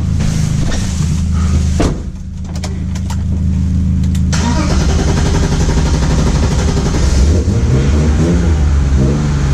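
BMW E36 car engine running at a steady idle, with a few sharp clicks about two to three seconds in; from about four and a half seconds in the engine pulls away and its pitch rises and wavers as the car accelerates.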